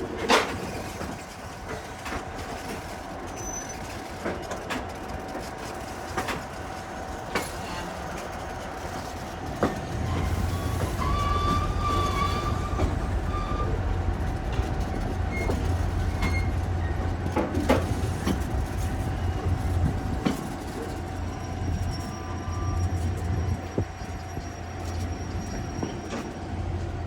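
Ride noise of a moving passenger train heard from aboard a railcar: a steady rumble with a faint steady hum and scattered clicks and knocks from the wheels on the rails. About ten seconds in, the low rumble grows louder.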